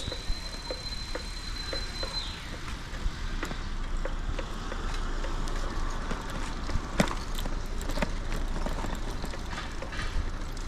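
Bicycle ride with steady wind rumble on the microphone and scattered light clicks and rattles. A thin, steady high tone sounds for about the first two seconds, and a few sharper clicks come about seven seconds in.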